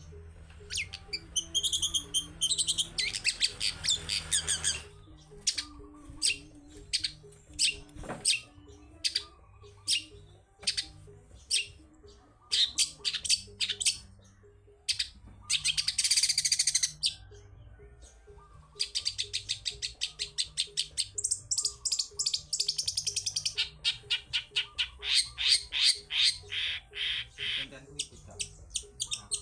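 Long-tailed shrike (cendet) singing: runs of sharp, rapid chattering notes and fast harsh trills, coming in bursts separated by short pauses.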